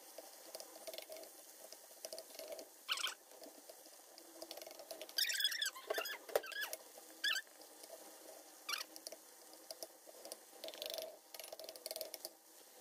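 Ground pork frying quietly in a nonstick pan, with wooden chopsticks tapping and scraping as the meat is stirred. A few sharp clicks come through, and there are short squeaks around the middle.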